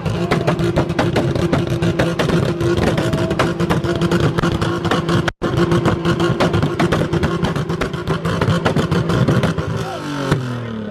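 Nissan 300ZX's V6 engine held on the rev limiter: a steady high-rev tone chopped into a rapid stutter as the limiter cuts in and out. There is a split-second break about five seconds in, and near the end the revs fall away.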